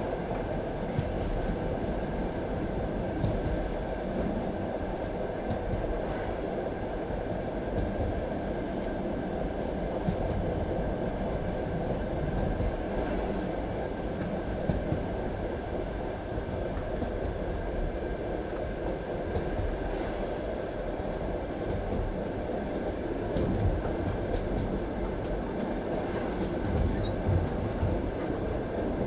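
Ride noise of a passenger railway carriage heard from inside: a steady rumble of the wheels on the rails with a faint steady whine and occasional light clicks, and a brief high wheel squeak near the end.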